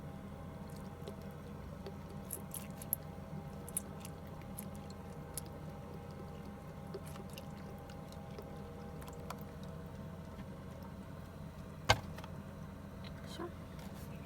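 A steady low hum with scattered light clicks and taps, and one sharper click about twelve seconds in.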